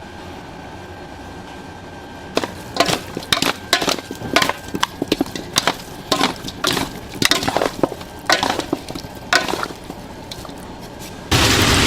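An irregular series of about twenty sharp knocks and cracks, starting a couple of seconds in and stopping shortly before the end. Just before the end a sudden loud, steady noise cuts in.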